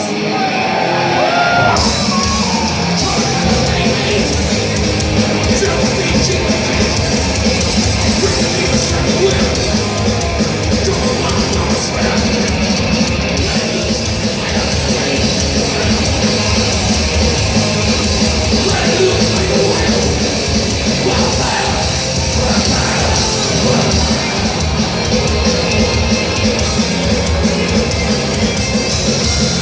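Extreme metal band playing live: distorted guitars and drums with shouted vocals. The full low end comes in about two seconds in.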